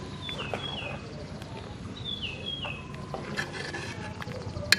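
A bird calls twice, each call a short run of whistled notes that step downward, about two seconds apart, over a low steady hum. Near the end a sharp metal click sounds as the ladle knocks the aluminium pot.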